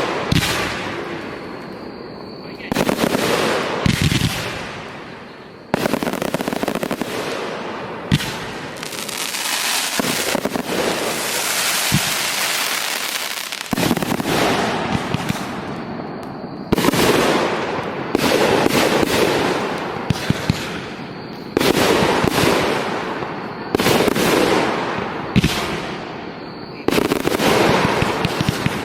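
A fireworks show going off. A new volley starts with a sudden burst every three to five seconds and is followed by a couple of seconds of crackling hiss, with sharp bangs among it.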